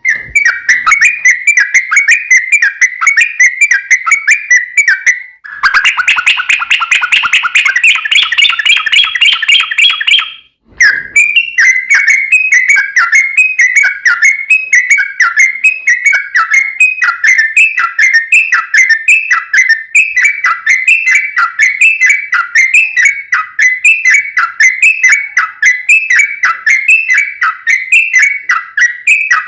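Yellow-vented bulbul (trucukan) singing its long 'ropel' song: a fast string of repeated chirping whistles. About five seconds in it switches to a denser, faster rattling trill for about five seconds, then breaks off briefly before the repeated chirps resume.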